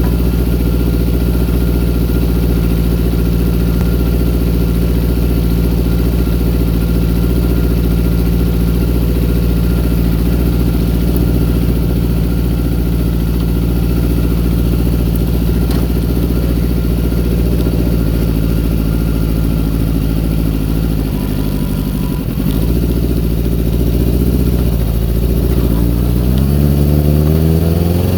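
Kawasaki ZX-6R inline-four motorcycle engine idling steadily, then wavering and dipping briefly about 21 seconds in. Near the end the revs climb. The owner calls the sound weird and suspects carburettor or fuel trouble after the bike sat unused.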